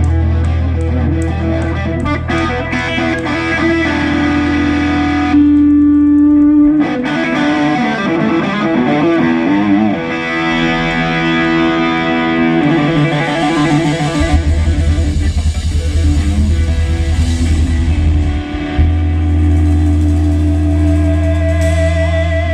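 Live blues-rock band playing: distorted electric guitar with long held notes and lead lines over a steady bass.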